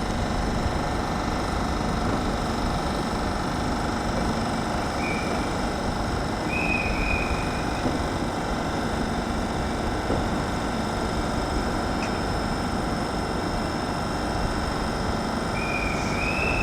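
Steady hum of a pair of Class 387 Electrostar electric trains standing at the platform, their onboard equipment running. A few short high-pitched tones come about five, seven and sixteen seconds in.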